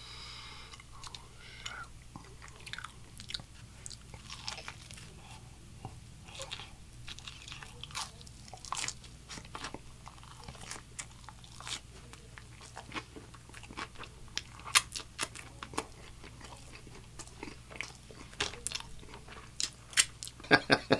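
Close-miked eating of a fried hot chicken slider: irregular wet mouth clicks, biting and crunching as it is chewed, with a few louder smacks near the end.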